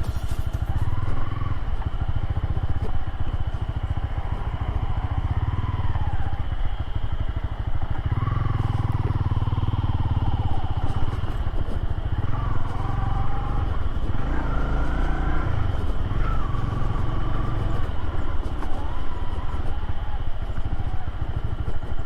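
Motorcycle engine running while riding off-road, its pitch rising and falling again and again with the throttle, over a heavy low rumble of wind on the microphone.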